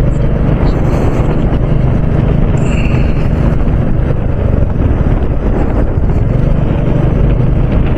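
Steady low rumble of a Royal Enfield Bullet's single-cylinder engine under way, mixed with wind rushing over the microphone while riding.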